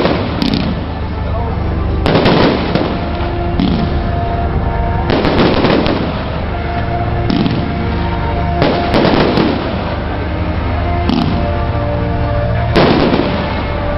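Fireworks going off: loud bursts every few seconds, each trailing into crackling, with smaller pops in between.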